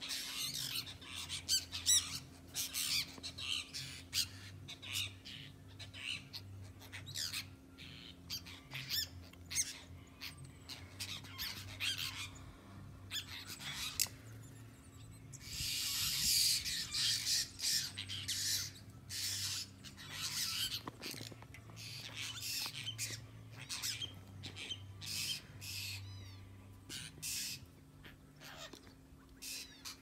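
Many birds calling over one another in short, high calls, with a denser stretch of loud calling about sixteen seconds in.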